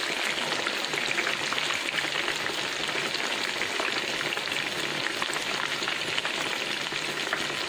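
Breaded chicken schnitzels frying in hot oil in a pan: a steady sizzle with dense, fine crackling.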